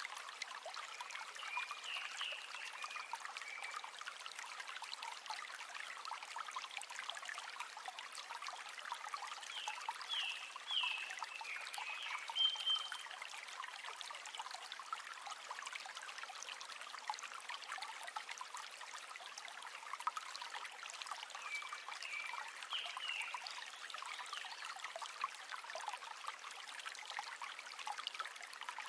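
River water running in a steady rush, light and high with no deep rumble. A few short, high chirps come in three brief runs: near the start, about ten seconds in, and about twenty-two seconds in.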